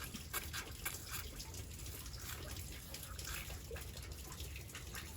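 Faint dripping and trickling of gasoline leaking from a split fuel hose, with scattered small ticks.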